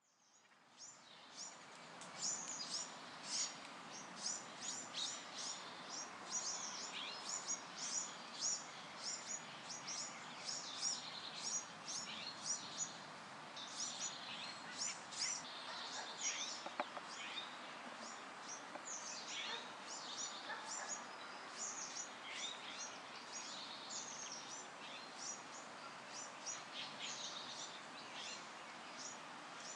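Small birds chirping: many short, high chirps in quick succession over a steady background hiss, fading in over the first couple of seconds.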